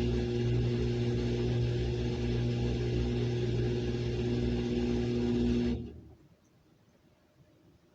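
Samsung washing machine running in its rinse cycle, a steady motor hum with a low rumble, which stops abruptly about six seconds in.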